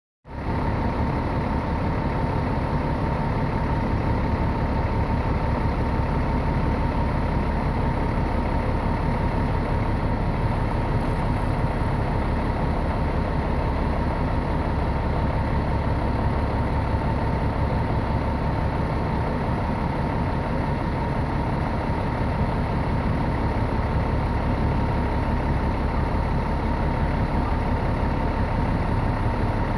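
A fire engine's diesel engine idling steadily: a constant low rumble with a steady higher tone over it.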